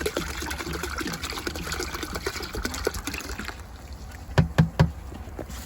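Water trickling from a hose into a bucket as it drains back out of a tankless water heater's heat exchanger, easing off after about three and a half seconds. Three quick, sharp knocks follow near the end.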